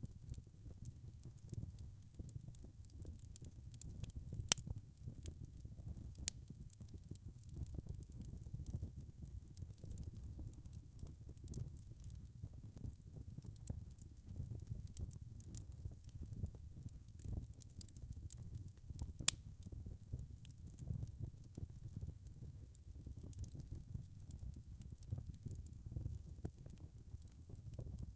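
Wood fire crackling in a fireplace: a steady low rumble of flames with scattered sharp pops, the two loudest about four and a half and nineteen seconds in.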